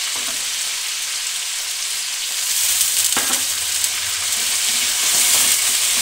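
Chicken pieces, onion and tomatoes sizzling in hot ghee in a wok while a wooden spoon stirs them, with a few light knocks of the spoon. The sizzle grows louder about halfway through.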